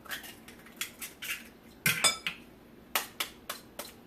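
Eggs being cracked on the rim of a bowl and handled over it: a series of sharp taps and clinks, the loudest a ringing clink about two seconds in.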